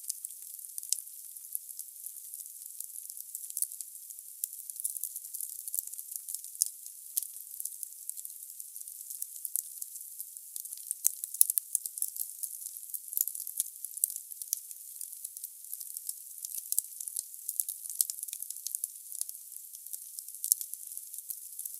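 Logs burning in a fireplace: a steady high hiss full of irregular crackles and pops, with a louder pop about halfway through.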